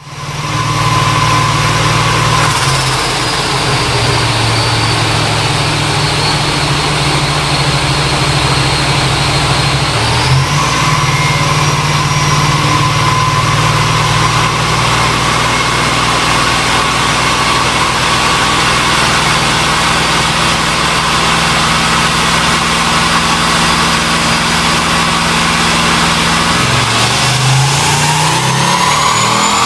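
Turbocharged LS2 V8 (T51R turbo) running loud on a chassis dyno, with a high turbo whine over the engine note. The whine sags slowly, jumps back up about ten seconds in, and near the end the engine and whine rise together as the revs climb.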